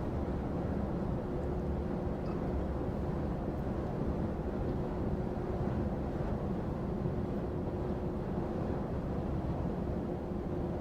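Inside the cab of a heavy goods lorry on the move: the steady drone of the diesel engine and road noise, with a faint steady hum running through it.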